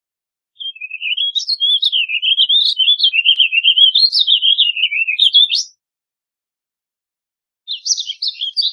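Warbling vireo singing: a long, rambling warble of quick notes that wander up and down in pitch for about five seconds, then a second song begins near the end.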